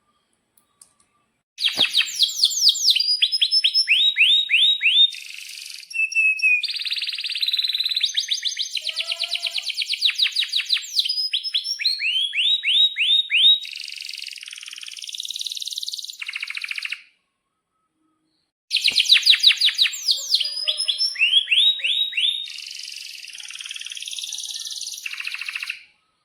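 Domestic canary singing in two long bouts of rapid trills and rolls, each phrase a run of fast repeated sweeping notes, with a short pause between the bouts.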